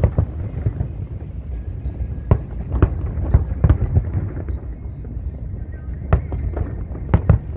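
Fireworks bursting: sharp bangs at irregular intervals, two of them close together near the end, over a steady low rumble.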